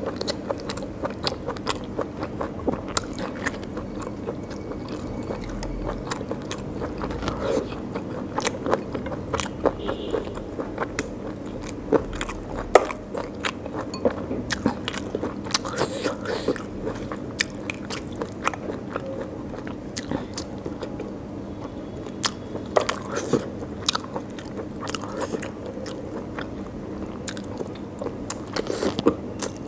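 Close-miked chewing and biting of curry and rice eaten by hand: many quick wet mouth clicks and smacks, with fingers mixing rice on the plate.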